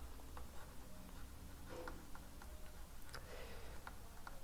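Faint, irregular light taps and short scratchy strokes of something writing on a board, with a low room hum beneath.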